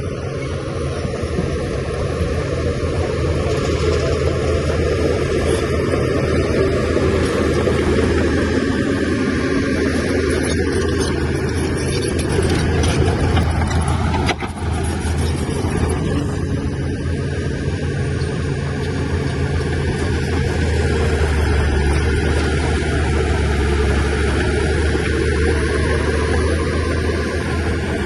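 Heavy diesel engine of earthmoving machinery running steadily with a deep hum, with one brief sharp knock about halfway through.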